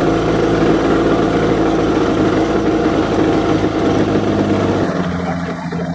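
A vehicle engine running steadily and close by, its note shifting about five seconds in.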